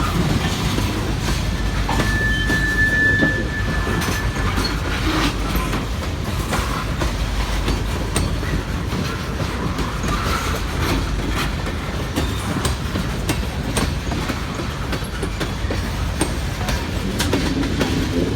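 Norfolk Southern freight train cars rolling past, with a steady rumble and wheels clicking over the rail joints. A brief high squeal sounds about two seconds in and lasts a couple of seconds.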